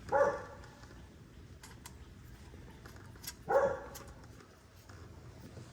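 A dog barks twice, a few seconds apart, over a few faint clicks.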